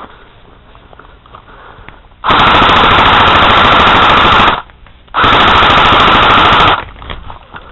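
Airsoft gun firing two long automatic bursts close to the microphone, very loud, with a short break between them.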